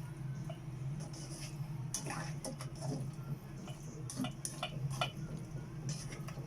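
Kitchen utensils clinking and knocking against pots and dishes, a handful of sharp clicks in the middle of the stretch, over a steady low hum.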